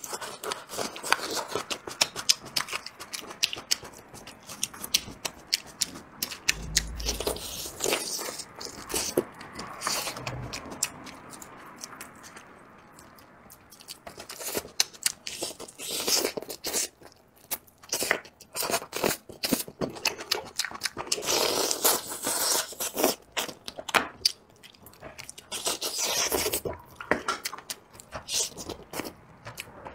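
Close-up eating sounds of biting and chewing braised duck head: wet chewing broken by many sharp crunches and cracks, with a quieter stretch about halfway through.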